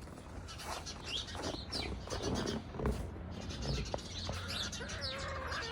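Birds chirping with short, high calls throughout, and a longer drawn-out call starting about four seconds in.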